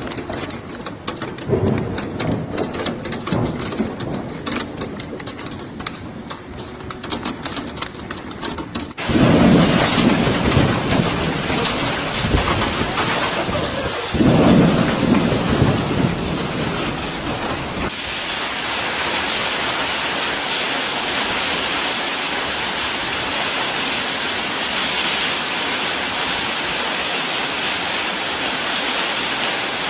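Heavy rain, joined by abrupt cuts into three stretches. First a dense patter and crackle of rain on a surface. About nine seconds in, a louder downpour hiss with two low rumbles of thunder. From about eighteen seconds, a steady downpour hiss.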